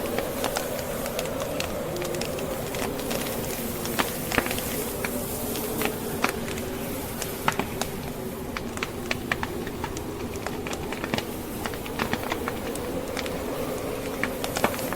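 Burning logs crackling, with irregular sharp pops throughout, over the steady noise of a blizzard wind that carries a low, slowly wavering howl.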